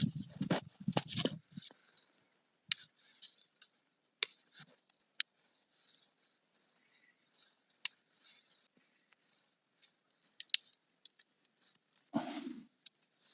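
Campfire crackling: scattered sharp pops over a faint steady hiss. A few rougher scraping sounds come at the start and a duller rustle near the end.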